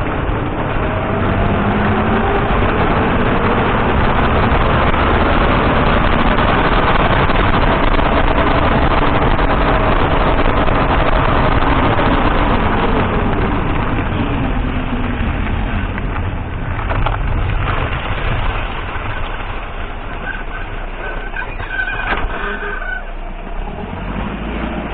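Datsun on-DO car driving at speed: steady road, tyre and wind rumble with a faint engine note that drifts up and down. The noise eases from about halfway through, and a few sharp knocks come near the end.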